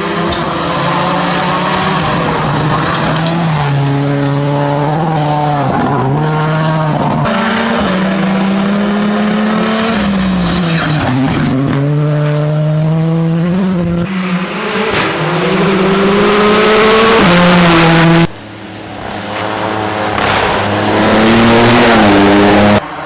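Rally car engines revving hard, with the pitch climbing and dropping again and again through gear changes and lifts. Tyre and skid noise sometimes comes through. Later a car comes close and grows loud, and the sound cuts off suddenly twice.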